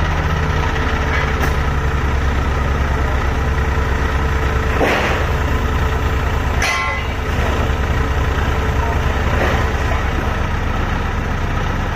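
Heavy diesel engine of construction machinery running steadily at a low, even pitch. Brief louder noises break over it about five and seven seconds in.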